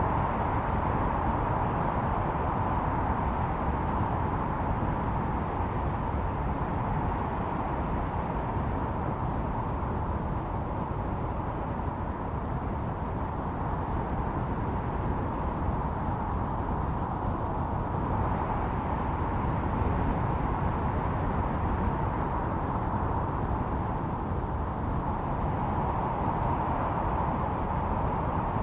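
Blizzard wind howling steadily: a deep, constant rush with a whistling tone that swells and eases, louder again near the end.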